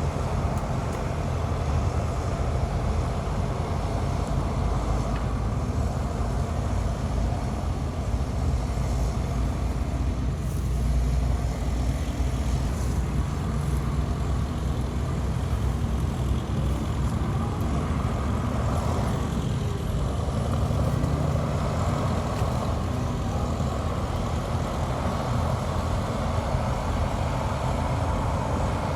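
Heavy diesel earthmoving machinery, a bulldozer and dump trucks, running steadily with a continuous low engine rumble while moving fill dirt.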